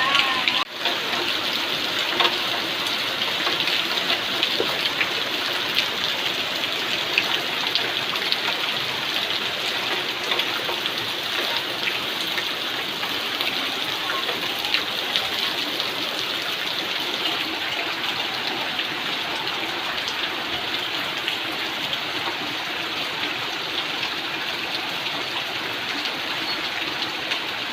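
Heavy rain falling steadily: a dense, even hiss dotted with frequent sharp ticks of individual drops striking.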